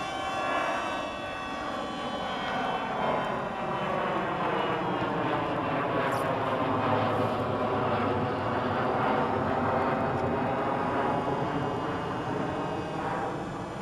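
Motor and propeller of a radio-controlled model airplane droning in flight, a steady whine whose pitch sinks in the middle and climbs back near the end, louder through the middle as the plane passes.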